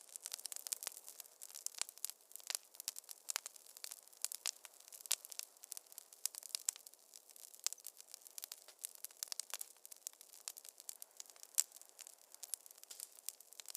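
Wood fire crackling in a fireplace: a steady run of sharp, irregular pops and snaps over a soft hiss.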